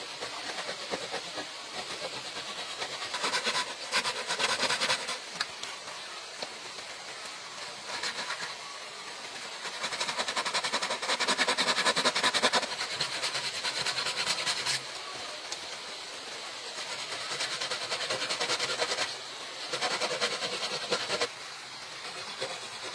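Rasping noise of bamboo being worked with a hand tool, made of many fast ticks and coming in bursts of a few seconds with short pauses between.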